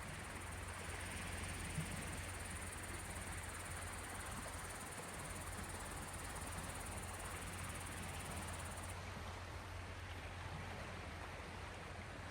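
Steady seashore ambience of small Gulf of Finland waves washing in: an even hiss with a low rumble underneath, and one faint tap about two seconds in.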